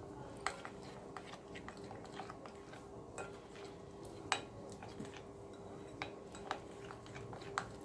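A spoon clinking and tapping against a mixing bowl at irregular intervals, with a few louder knocks, as spice powders are stirred into a batter.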